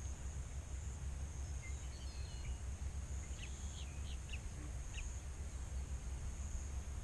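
Outdoor marsh ambience: a few short bird chirps in the middle, over a steady high insect buzz that swells and fades about once a second and a constant low rumble.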